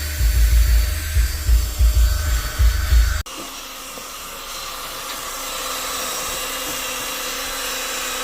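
Electric drill with a polishing attachment running steadily while polishing a metal engine part, a constant motor whine. Heavy low thuds of handling noise run through the first three seconds; the sound cuts abruptly about three seconds in and resumes as a steadier, quieter whine.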